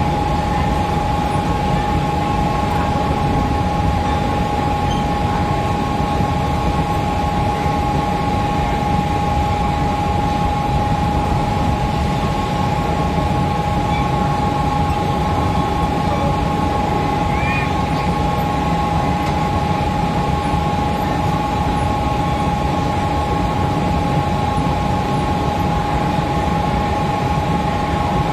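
Mumbai suburban electric local train heard from inside the coach: a steady low hum and rushing noise with a steady high-pitched whine over it.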